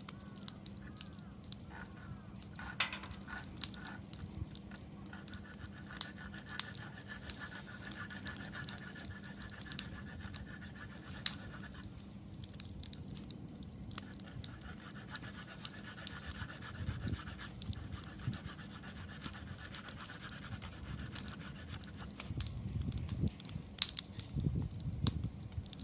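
Wood campfire crackling, with scattered sharp pops and a thin high whistling hiss for several seconds at a time; low breathy rushing sounds come and go near the end.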